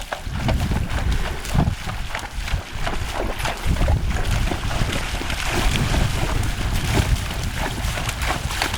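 Wind buffeting the microphone with a heavy low rumble, over the irregular splashing of a horse's hooves wading through creek water.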